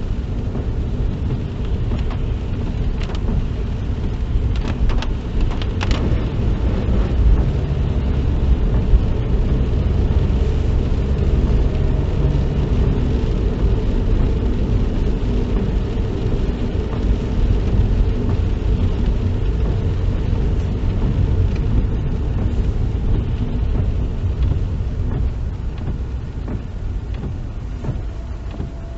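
Car driving along, a steady low rumble of road and engine noise heard from inside the cabin, with a few light clicks about five seconds in.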